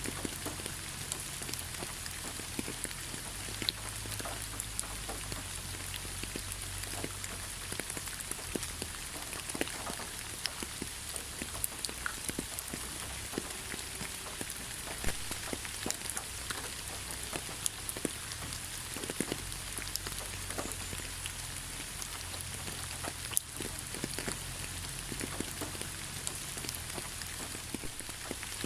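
Steady rain in a forest: a constant hiss of rainfall with many individual drops striking close by, irregularly and often.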